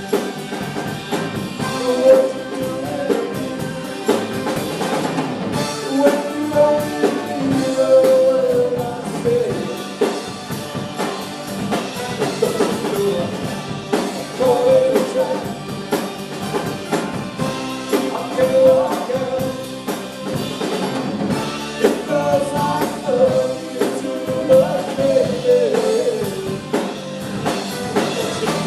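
Live rock band playing, with a lead singer over a drum kit and backing instruments.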